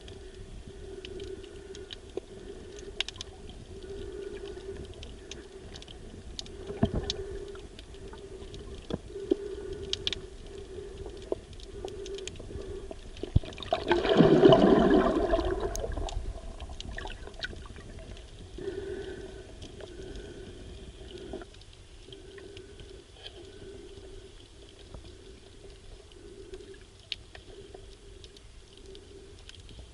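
Sea water heard from underwater, muffled, with a steady pulsing hum and scattered sharp clicks. About 14 seconds in there is a louder rushing surge of water noise lasting a couple of seconds.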